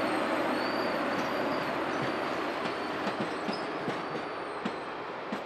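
Union Pacific Big Boy 4014's train rolling past: a steady rumble of wheels on rail, with scattered light clicks at the rail joints and a thin, wavering high wheel squeal. The sound slowly fades toward the end.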